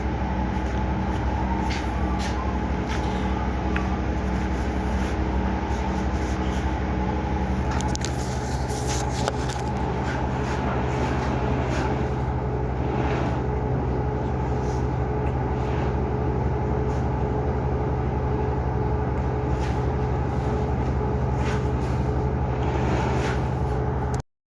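A steady engine drone with a low hum and scattered light clicks; its tone shifts about a third of the way through, and the sound cuts off abruptly just before the end.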